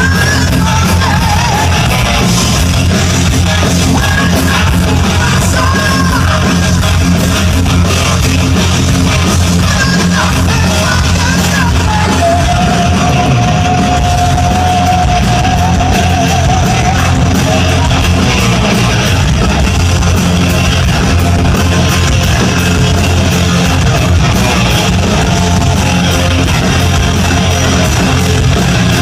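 Heavy rock band playing live, loud and unbroken, with electric guitars, drums and vocals; a long held melodic note rings out about halfway through.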